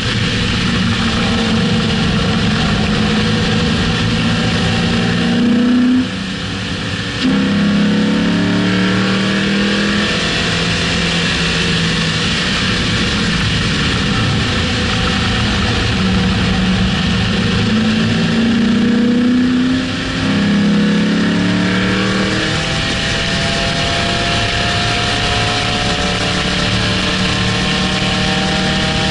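2006 Mustang GT's 4.6-litre V8 pulling hard on a race track, its pitch climbing and then falling back with a brief drop in loudness twice, about six and twenty seconds in, as at gear changes. Steady wind and tyre noise run underneath.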